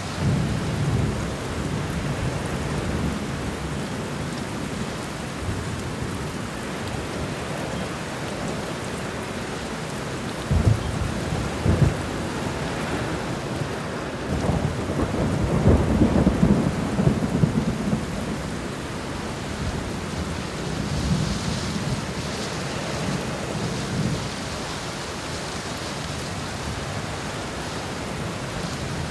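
Thunderstorm: steady rain with low rolling thunder. Two sharp cracks come about ten and twelve seconds in, and the loudest, longest rumble comes around fifteen to eighteen seconds in.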